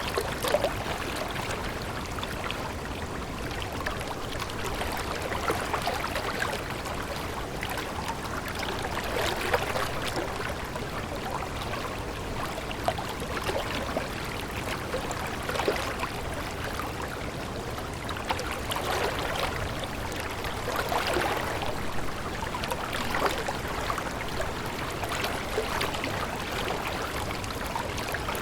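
Stream water flowing steadily, with brief sharper splashes scattered throughout.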